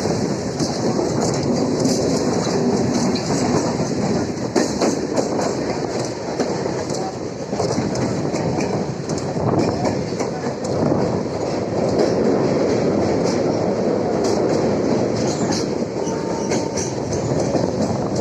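Indian suburban electric local train running, heard from inside the coach: steady wheel and track rumble with the clickety-clack of wheels over rail joints.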